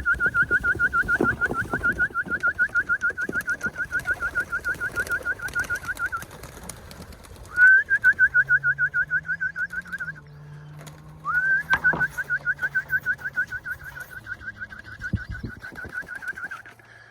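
A loud trilled whistle on one steady pitch, pulsing about six times a second, comes in three long runs: one of about seven seconds, a short one of about three seconds, and one of about five seconds, with brief gaps between them.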